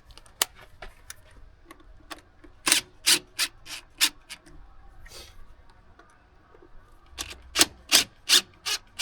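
Ratchet wrench loosening nuts in quick ratcheting strokes, about three a second, one run a few seconds in and another near the end.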